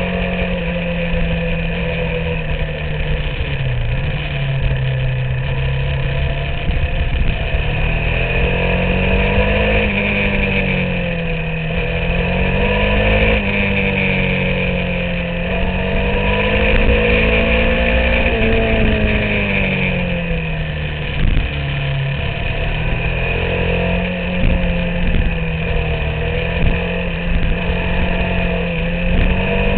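Motorcycle engine heard from on board while riding a winding road. Its pitch rises and falls several times as the rider rolls on and off the throttle through the bends, with wind rushing over the microphone.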